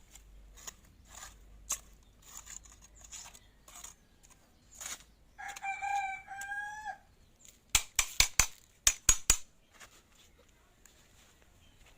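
A rooster crows once, about five seconds in, a call of about a second and a half. Soon after comes a quick run of about eight sharp clicks or knocks, the loudest sounds here.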